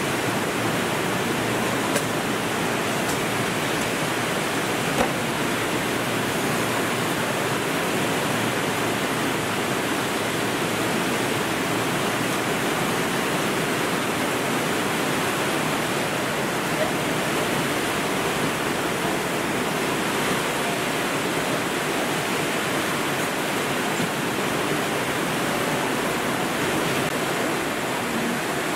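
Torrential cloudburst rain pouring down: a dense, steady rush of water noise, with a couple of faint clicks a few seconds in.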